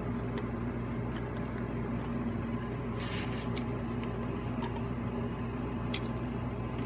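A person chewing fried chicken up close, with a few short wet, squishy mouth sounds and clicks, over a steady low electrical hum.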